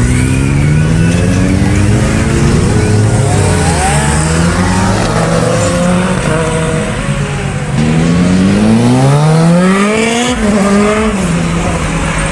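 Superbike engines revving, the pitch repeatedly rising and falling, with one long climb from about eight seconds in that peaks around ten seconds and then drops.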